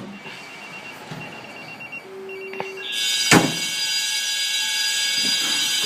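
Fire dispatch alert tones over a radio scanner. First come short repeated high beeps, then a steady lower tone for about a second, then a louder steady tone of many pitches from about three seconds in, with a sharp click just after it starts.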